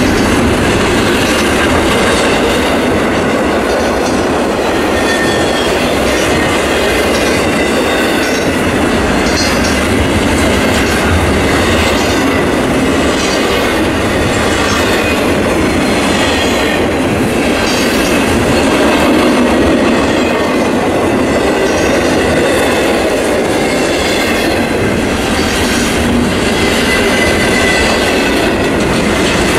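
Double-stack intermodal freight train of well cars rolling steadily past, its wheels running on the rails with a continuous loud rumble and rhythmic clickety-clack.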